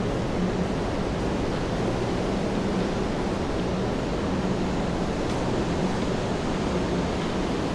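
Steady rain falling on a city street, an even wash of noise, with a low hum that comes and goes underneath.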